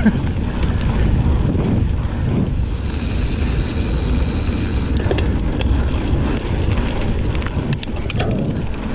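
Wind buffeting the microphone over the rumble of a Giant Fathom 29 mountain bike's tyres rolling fast on a dirt trail, with a few sharp clicks and rattles from the bike over bumps, around five seconds in and near the end.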